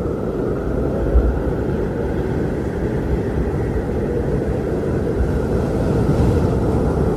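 Strong wind blowing steadily with a low rumble, swelling in gusts, one of them about a second in.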